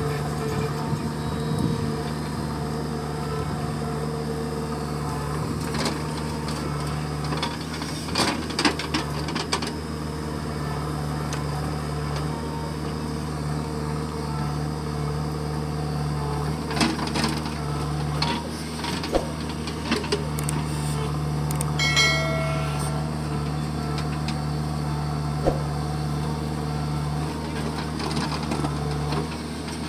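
Heavy machine's diesel engine running steadily, with scattered sharp metallic knocks and clanks from the work and a brief high tone about two-thirds of the way through.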